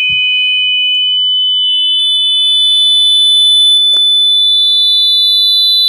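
Smartphone speaker playing a speaker-cleaning app's dust-removal tone: a loud, steady, high-pitched tone that steps up in pitch about a second in and again near four seconds, with a brief click near four seconds.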